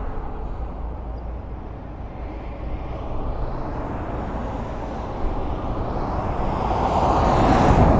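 Highway traffic: a steady wash of engine and tyre noise from passing cars, with one vehicle drawing closer and passing loudly near the end.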